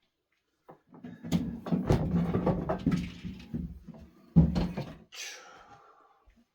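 Clattering and knocking of hard objects being handled and moved, with one heavy thump about four and a half seconds in, then a brief scrape.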